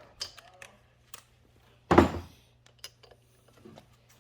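Hand tools clicking and tapping on the engine's cylinder head, with one loud knock about two seconds in.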